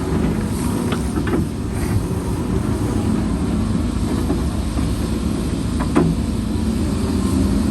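Heavy diesel engine of earthmoving machinery running steadily, with a couple of short sharp knocks about a second in and near the end.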